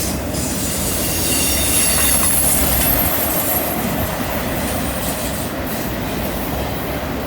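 CN freight train rolling past on a curve, a steady rumble of wheels on rail. From about one to four seconds in comes a high-pitched squeal of several thin tones: wheel flanges squealing against the rail through the curve.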